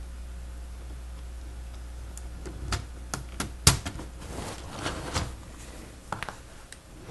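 Sharp plastic clicks and taps from Lego Technic pieces being handled and pressed together, starting about two and a half seconds in, the loudest about a second later.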